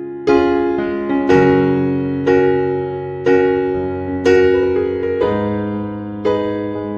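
Slow, soft piano music: chords struck about once a second, each ringing on and slowly fading.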